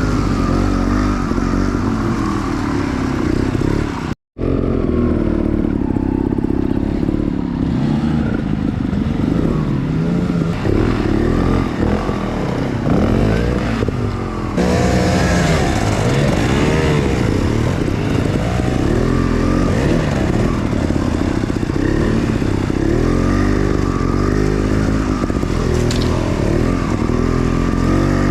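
Enduro dirt bike engine revving up and down in constant, uneven throttle changes, as when picking a way over rough off-road ground. The sound cuts out for an instant about four seconds in.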